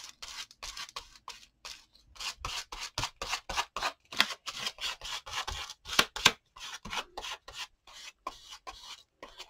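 Acrylic paint being scraped onto a paper journal page in quick, short strokes, about three or four a second, the tool rasping across the paper.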